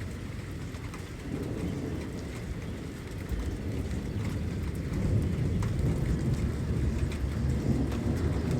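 Rain falling steadily, with a low rolling rumble of thunder that builds and is strongest in the second half.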